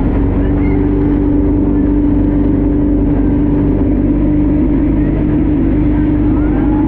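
Speedboat engine running steadily with an unchanging drone, heard from on board the boat.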